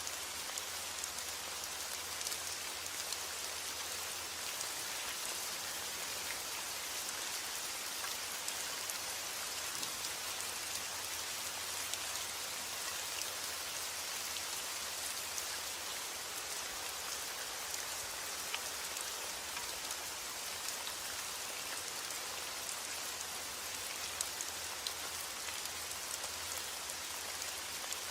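Steady heavy rain: a dense, even hiss with scattered individual drop ticks.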